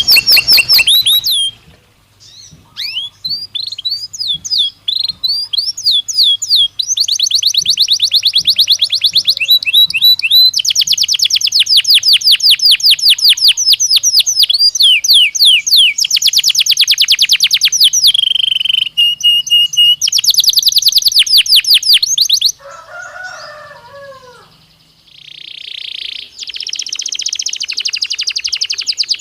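Belgian canary singing: long runs of fast repeated trill notes, broken by short pauses. A brief lower, slower phrase comes about two-thirds of the way through.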